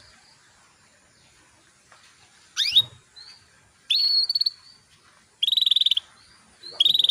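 Female canary calling: a quick rising sweep about two and a half seconds in, then three short buzzy trilled calls, each about half a second long and roughly a second and a half apart. It is a female's call to draw male canaries into song.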